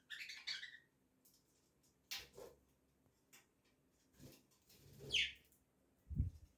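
Budgerigars giving a few short chirps, one of them falling in pitch about five seconds in, with a few light knocks and a low thump near the end.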